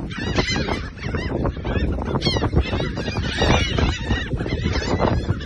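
Birds calling, with many overlapping pitched calls throughout.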